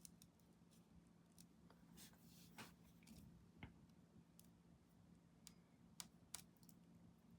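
Near silence: a few faint, scattered clicks and a brief light scratchy rustle over a low steady hum.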